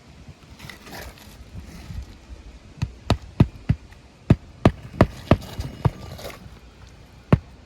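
Hammer driving roofing nails into an asphalt shingle: a run of sharp strikes, about three a second, starting about three seconds in after some soft rustling, with a short pause before a last strike near the end.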